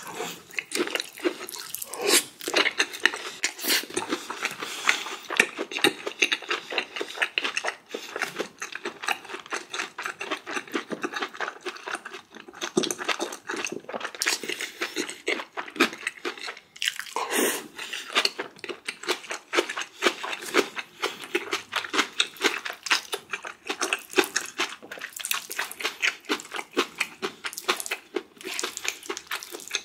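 A person chewing and crunching food close to the microphone, with dense wet mouth clicks and crackles throughout.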